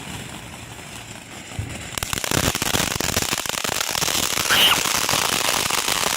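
A firework goes off about two seconds in: a dense, rapid crackling of many small sharp pops that keeps going without a break.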